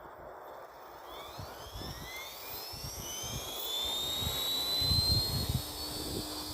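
Align T-Rex 450LP electric RC helicopter spooling up for takeoff: its motor and rotor whine rises in pitch over the first few seconds, then holds steady as the rotor comes up to speed.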